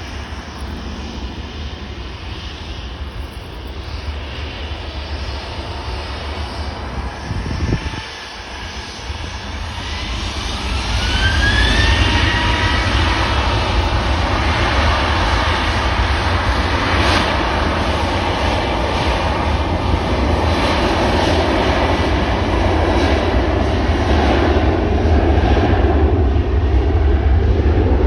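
Boeing 737-800's CFM56-7B jet engines spooling up to takeoff thrust. A rising whine comes about ten seconds in, then the engines run loud and steady as the jet accelerates for takeoff.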